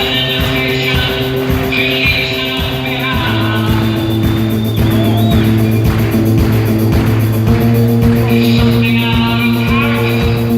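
Live rock band playing loudly: held chords over a steady drum beat, the chord changing twice, with singing at times.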